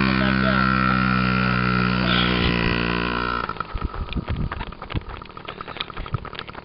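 Yamaha PW50's small 49cc two-stroke single engine running at a steady, unchanging pitch for about three and a half seconds, then breaking into an uneven, crackling sound.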